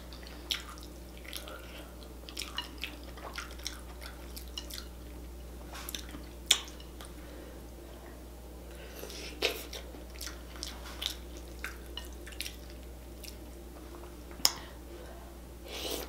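Close-miked mukbang eating: wet chewing and lip smacking on sauce-soaked potatoes, heard as scattered sharp wet clicks, the loudest about six and a half seconds in and again near the end. A steady low hum lies underneath.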